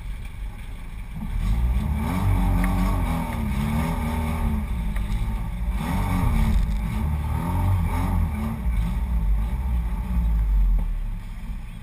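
Off-road 4x4's engine starting about a second in and revving up and down repeatedly as the vehicle pulls across muddy, rough ground, easing off near the end.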